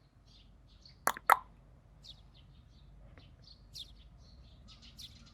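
Short, high chirping calls repeated throughout, with two sharp knocks in quick succession about a second in.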